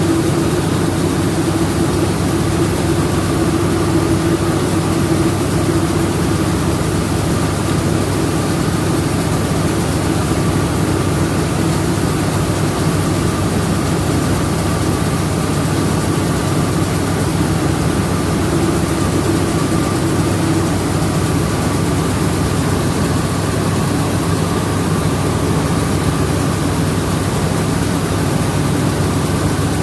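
Rice milling machinery running steadily: a loud, even drone with a constant higher whine over it.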